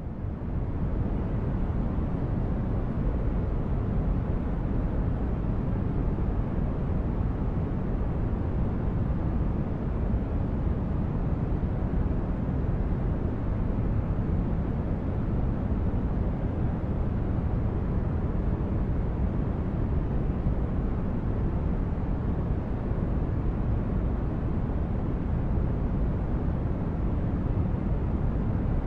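Steady sleep-aid noise track, deep and bass-heavy rather than hissy, holding level without change after a brief fade-in at the very start.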